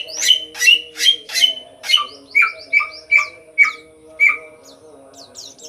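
Samyong songbird in full song: a run of about ten loud, clear notes, roughly two a second, each dropping sharply in pitch, with the later notes pitched lower, stopping about four seconds in. A steady low hum runs underneath.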